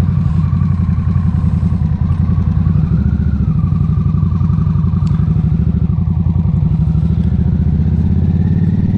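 Harley-Davidson motorcycle's V-twin engine running steadily as the bike rides along, with a slight change in engine note about three seconds in.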